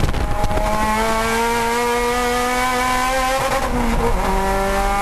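Turbocharged Mitsubishi Lancer Evolution VIII's 2.0-litre 4G63 four-cylinder engine under full acceleration, heard from inside the cabin. Its pitch rises steadily, drops at an upshift about three and a half seconds in, then climbs again in the next gear.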